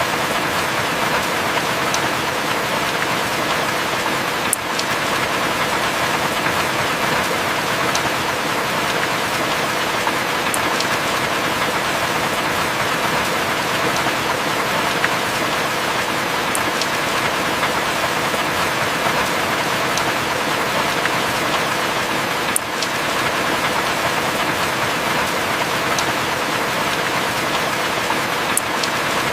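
Heavy rain falling steadily, an even hiss with a few faint ticks of single drops.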